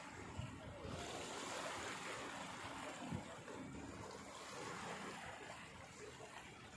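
Steady rushing of water, swelling up about a second in.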